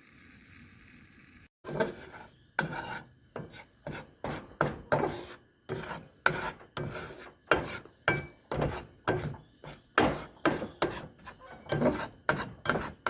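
Metal spatula scraping and stirring eggs in a frying pan, in quick repeated strokes about two a second, starting about a second and a half in.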